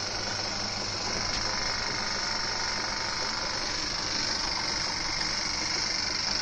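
Old Winfield metal lathe running steadily on its belt drive and newly mounted pulley, a constant mechanical whirr with a low hum, sounding a lot nicer than before the new pulley went on.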